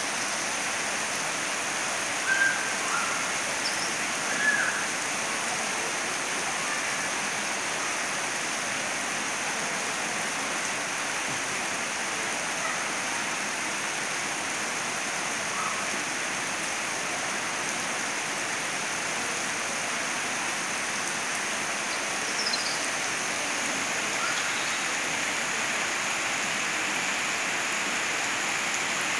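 Torrential downpour of heavy rain: a steady, even hiss of rain and falling water. A few short high chirps stand out over it about two and four seconds in, with another briefly near the end.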